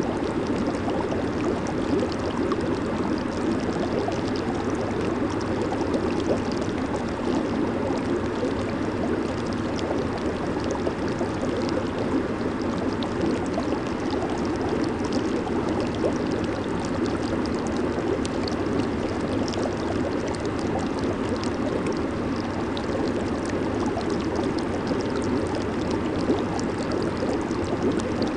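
Hot tub jets running, steady churning and bubbling water with a fine fizz of popping bubbles over it.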